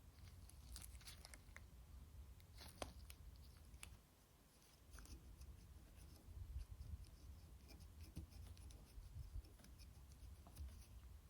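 Faint scratching and scrubbing strokes with small clicks and taps as a PS4 Slim motherboard is cleaned by hand, pausing briefly about four seconds in.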